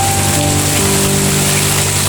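Heavy rain falling in a steady hiss, with several steady low tones held underneath it that change in steps.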